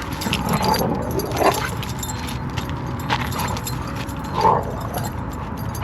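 Dogs in rough play: a Giant Schnauzer and a puppy give short vocalizations about four times, roughly a second or so apart.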